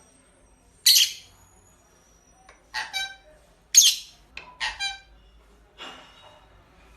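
A pet parrot calling: about six short squawks and whistly calls in irregular bursts, the loudest a harsh screech a little under four seconds in.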